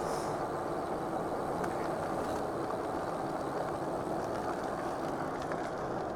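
Steady rushing wind noise on a clip-on DJI wireless microphone with no furry windscreen, from riding an e-bike at speed, with a few faint ticks in it.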